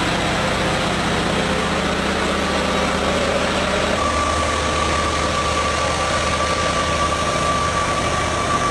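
Heavy truck engine running steadily; its note changes about four seconds in, with a steady higher whine joining.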